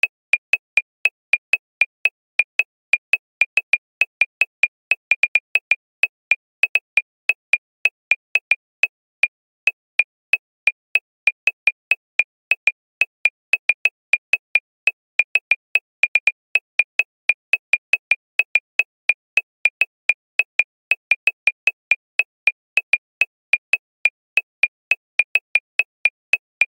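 A long series of short, high-pitched electronic clicks, about three a second at a slightly uneven pace, with dead silence between them.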